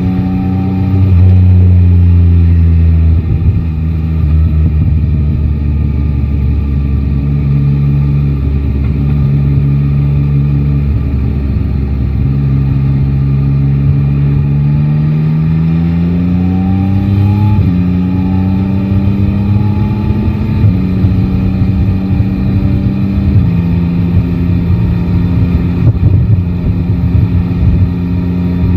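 Yamaha Tracer 9 GT's 890 cc inline-three engine pulling under way: it holds steady, revs up slowly, then changes up three times, its pitch dropping at each shift. Wind rumbles on the microphone throughout.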